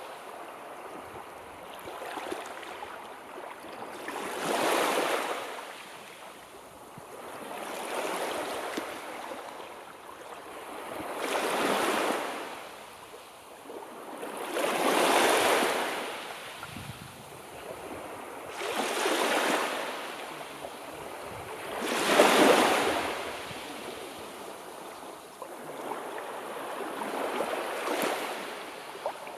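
Sea waves rolling in, the surf swelling and falling back in a slow rhythm of one surge every three to four seconds.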